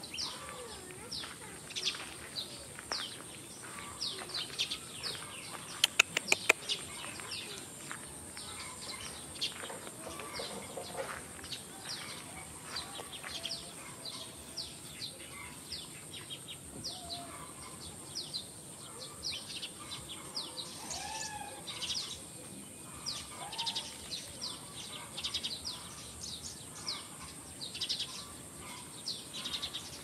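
Birds chirping over and over in short, quick chirps, with a steady high-pitched hiss behind them. About six seconds in, a quick run of sharp clicks is the loudest sound.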